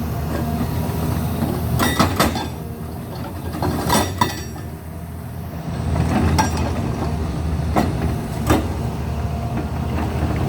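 Heavy machinery on railway construction works running with a steady low rumble, with sharp metallic clanks and knocks every second or two.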